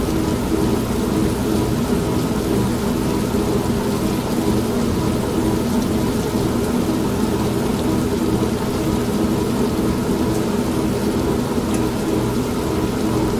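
An old washing machine's motor humming steadily, blended with continuous rain and a low thunder rumble. The mix stays even, with no single crack of thunder standing out.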